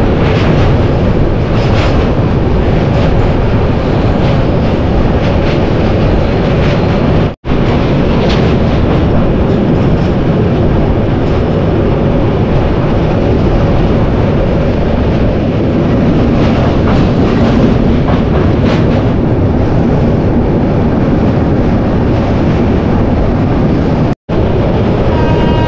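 Indian Railways express train (Ganga Kaveri Express) running over a steel truss bridge, heard from an open coach doorway: a loud, steady rumble of wheels on rails with faint clicks here and there. The sound cuts out for an instant twice, once about seven seconds in and once near the end.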